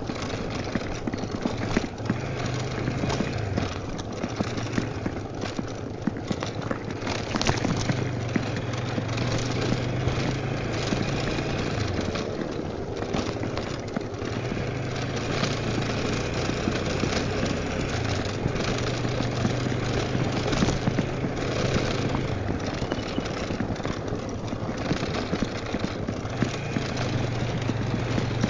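Honda Tornado 250's single-cylinder engine running on the move, its note rising and falling several times with throttle and gear changes, over a steady rush of wind noise.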